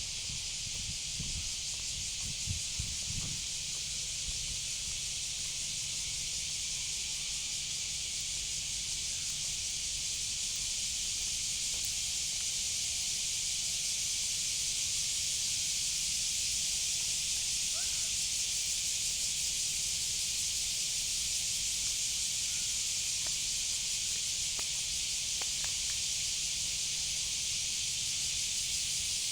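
Cicadas singing: a steady, unbroken high buzzing hiss that swells a little around the middle.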